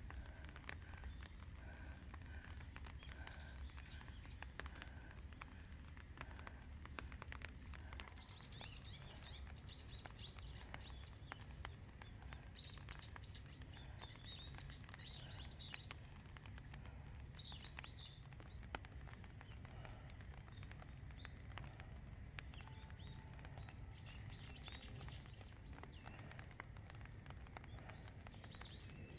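Faint outdoor ambience: small birds chirping in short repeated bursts over a steady low rumble, with light ticking of rain drops throughout.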